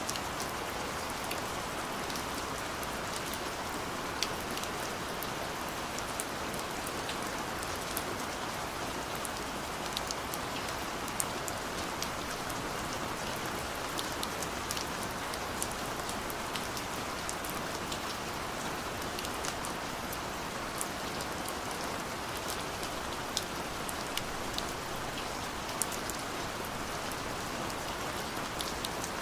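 Steady rain falling on a surface, a constant hiss with scattered sharp drop ticks throughout.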